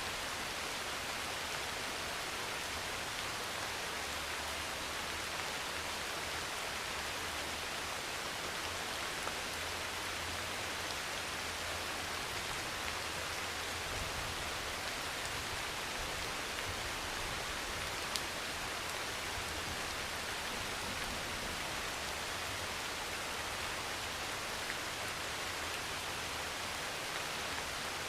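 Steady heavy rain on a metal roof, an even hiss of drops with a few single ticks standing out, the plainest about 18 seconds in. A faint low rumble sits underneath through the middle.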